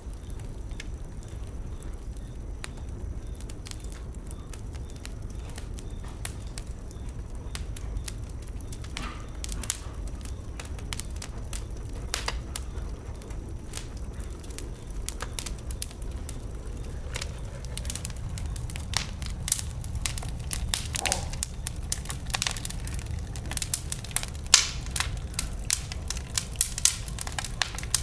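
Wood bonfire burning, with crackling and sharp pops from the burning logs over a low steady rumble; the pops come more often and louder in the last third.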